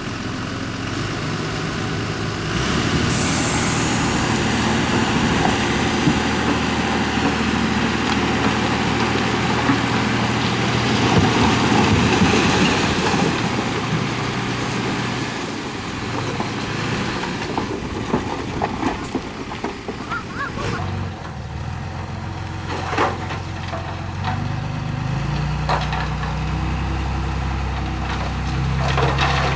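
Diesel engines of a bulldozer and dump truck running steadily on a soil-fill job, with a sharp rush of air hiss about three seconds in and scattered knocks and clanks later on.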